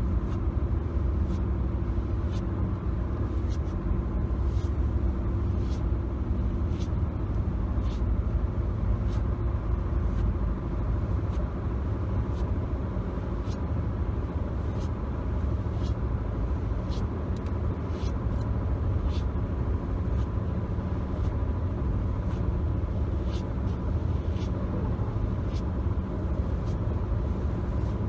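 Car cabin ride noise: a steady low road-and-engine rumble, with irregular light taps on the car's interior surfaces.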